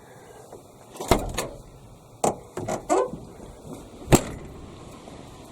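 A few separate knocks and clunks of someone handling the S10 pickup's body parts; the sharpest, loudest clunk comes about four seconds in.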